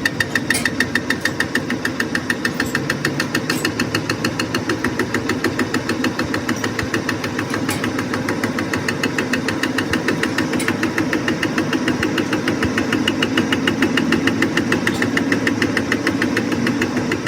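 Lathe running with a steady, rapid knock, about seven even beats a second.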